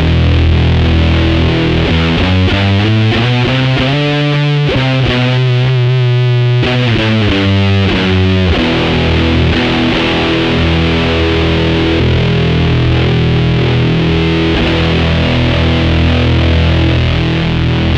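Electric guitar played through a BOSS FZ-1W fuzz pedal, thick and fuzzy. Heavy chords give way about two seconds in to a line of single held notes, some of them bent, and chords return a little before halfway.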